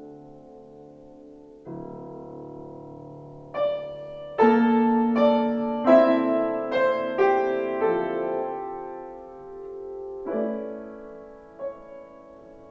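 Piano playing slow, held chords, each struck and left to ring. The notes come closer together and louder in the middle, then it settles back to softer chords.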